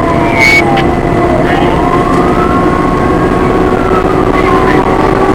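Fire engine's siren wailing in slow falling and rising sweeps over the truck's steady engine drone, heard from inside the cab while the engine runs on a call.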